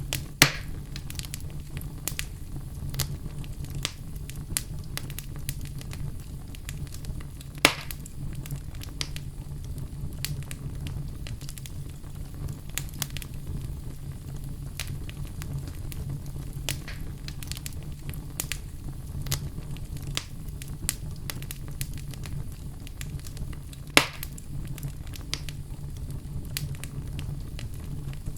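Wood fire crackling, with a steady low rumble under a running patter of small snaps. Three louder sharp pops come just after the start, about a quarter of the way in, and near the end.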